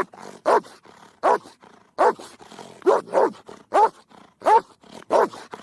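A dog barking over and over, about nine barks evenly spaced a little under a second apart.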